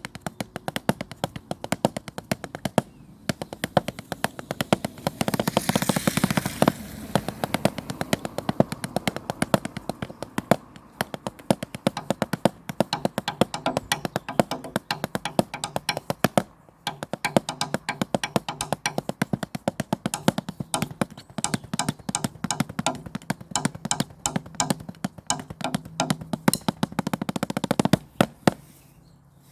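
Drumsticks improvising fast rhythms of sharp taps and rolls on natural surfaces, with a dense, louder roll about five to seven seconds in and two brief breaks; the playing stops just before the end.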